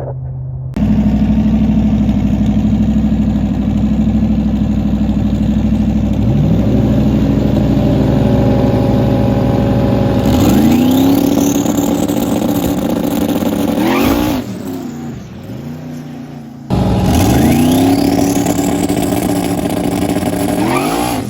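Turbocharged 5.3-litre LS V8 in a drag car, running and then accelerating hard, its note climbing and levelling off. A high whine sweeps upward with it. The sound cuts off abruptly partway through and starts again with a second climb.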